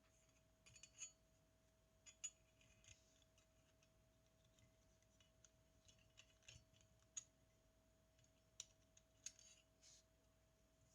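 Faint, irregular small clicks and taps of small tools and parts being handled during repair of a Zenit TTL film camera, over a faint steady hum.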